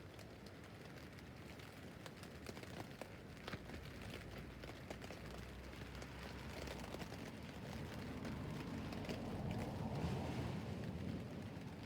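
Rain falling on a tent roof: a steady hiss dotted with many separate drop taps. A low rumble swells up about eight seconds in and fades near the end.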